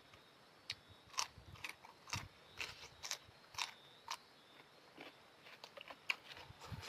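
Mouth sounds of someone chewing noodles: a run of short, wet smacks and clicks at an irregular pace, roughly two a second.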